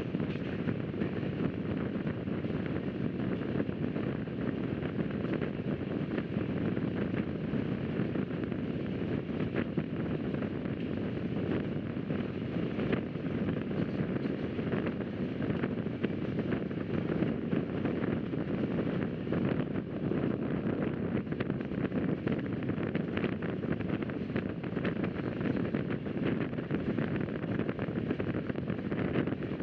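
Rajdhani Express passenger train running at speed: a steady low rumble of wheels and carriage, with wind rushing past.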